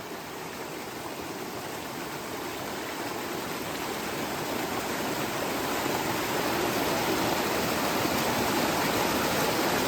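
Rushing river water, a steady dense rush that grows gradually louder: a mountain river running high after a week of rain.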